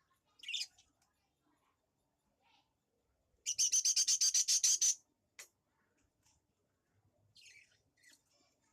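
A bird chirping: a single chirp, then a fast run of about a dozen rapid high chirps lasting about a second and a half, and a few fainter chirps near the end.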